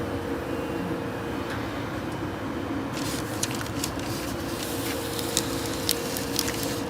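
Steady machine hum with a constant mid-pitched tone, and from about three seconds in a series of sharp clicks and taps of parts being handled.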